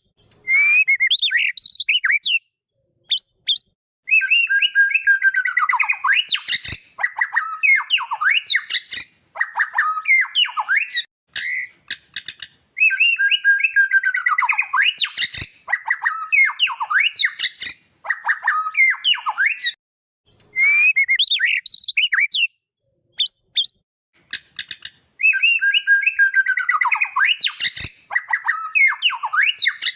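White-rumped shama (murai batu) song: rapid, sliding, clear whistled notes and chirps. A long dense phrase comes three times, with short scattered notes and brief pauses between.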